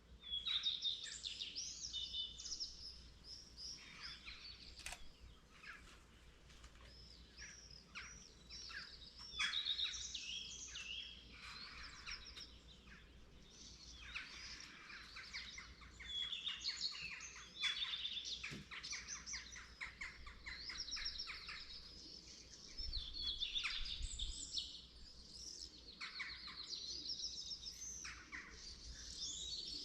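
Dawn chorus of several songbirds: overlapping chirps, trills and warbling phrases that come and go throughout, with a faint low background hum beneath.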